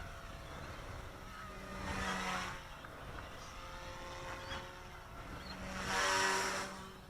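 Micro RC helicopter's direct-drive brushless main motor and rotor, held at a constant head speed, giving a steady whine and rotor hiss. It swells louder twice as the helicopter passes close, briefly about two seconds in and most strongly about six seconds in.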